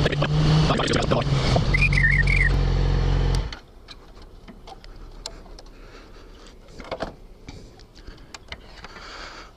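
Motorcycle engine running steadily, with a brief high warbling tone about two seconds in. It cuts off suddenly about three and a half seconds in as the bike is switched off after being pulled over, leaving quiet with a few small clicks and knocks.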